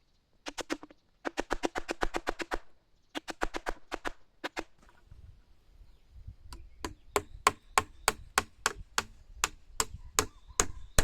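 Chopping on wood: quick bursts of rapid knocks, then from about halfway a steady run of single strokes, about three a second, each with a dull thud.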